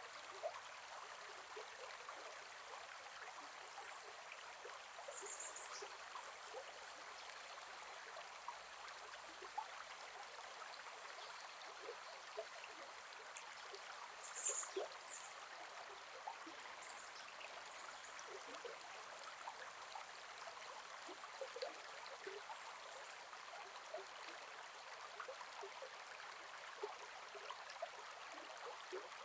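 Gentle forest river flowing over stones: a soft, steady rush of water with many small trickles and gurgles. Two brief high chirps come through, about five and fourteen seconds in.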